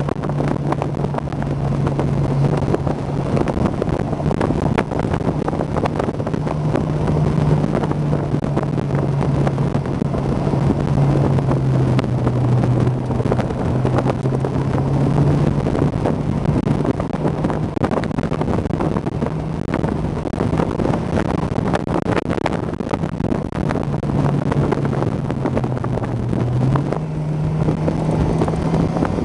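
Honda S2000's four-cylinder engine running steadily while the car is under way with the top down, mixed with wind buffeting the microphone. Near the end the engine note steps up in pitch.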